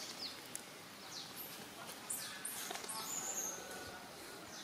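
Small birds chirping: a scatter of short, high chirps that sweep quickly downward, with one brief held whistle about three seconds in.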